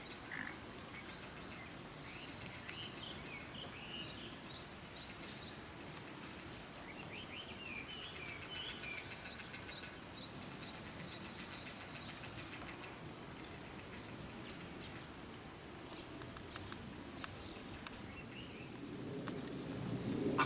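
Faint background noise with scattered short bird chirps, bunched a couple of seconds in and again around the middle; a low rumble swells near the end.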